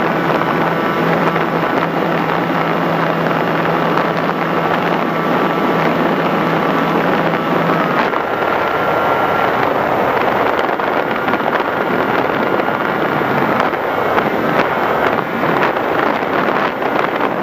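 FPV Raptor RC plane's electric motor and propeller running steadily, with heavy wind rushing over the microphone. The steady motor tone drops away about eight seconds in, leaving mostly wind noise.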